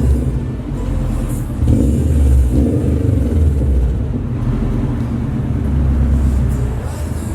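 Subaru WRX STi's flat-four engine running with a low, steady rumble that swells slightly in level now and then.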